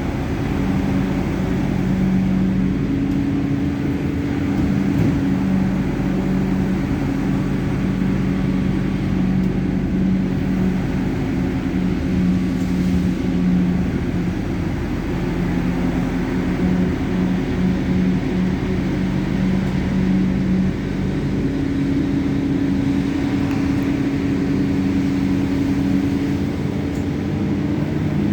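A vehicle running: a steady, loud low drone with held humming tones that shift slightly in pitch every few seconds.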